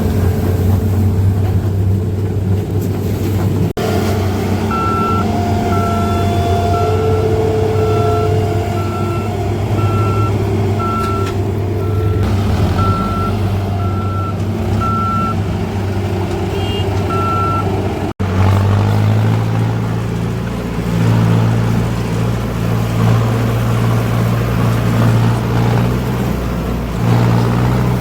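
Heavy diesel engine running steadily, with a reversing alarm beeping about once a second from about 5 s until about 17 s. After about 18 s the engine is louder and its note changes.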